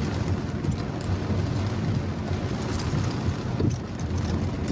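Steady low rumble of a car driving on wet roads in heavy rain, with a constant wash of road and rain noise.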